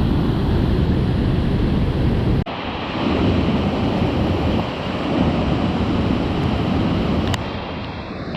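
Steady rushing roar of a rain-swollen waterfall, mixed with wind buffeting the microphone. The sound changes abruptly about two and a half seconds in, losing much of its deep rumble, and thins again near the end.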